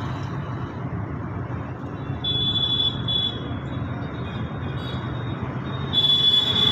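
Road traffic: engines of passing vehicles running, with a shrill high tone sounding on and off from about two seconds in, loudest near the end.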